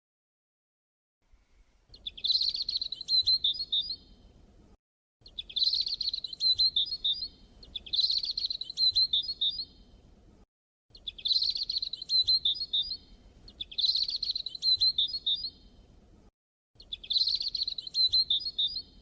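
A songbird singing: six high-pitched phrases of about two seconds each, each ending in a quick run of notes, over a faint low background hiss.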